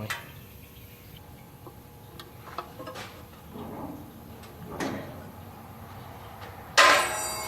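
Scattered light metallic clicks and a few short knocks of hand tools at work under a car during an oil change, as the oil drain plug goes back in. Near the end a loud, sustained ringing sound with several steady tones starts suddenly.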